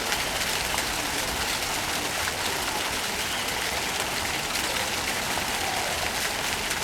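Fountain water splashing and running: a steady rushing hiss with no breaks.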